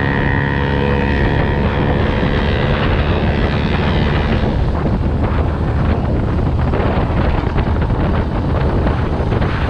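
Dirt bike engine running at a steady speed while riding, with wind buffeting the microphone. After about four seconds the engine's steady tone fades under rough wind noise and crackle.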